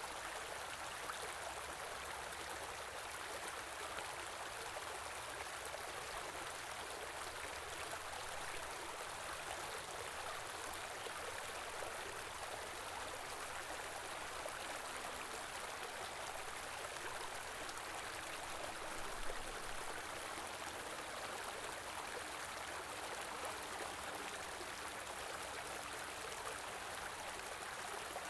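Stream of open water running and gurgling steadily, an even rushing babble.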